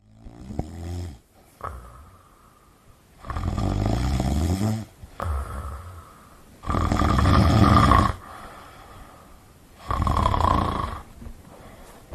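A person snoring: loud snores about every three seconds with quiet pauses between, the loudest about seven seconds in.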